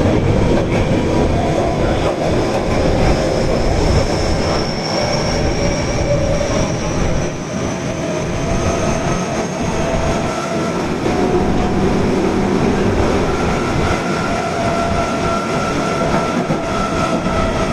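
Osaka Metro Tanimachi Line subway train running between stations, heard from inside the car: a steady rumble of wheels on rail with a faint high whine that rises slowly in pitch over the first ten seconds or so.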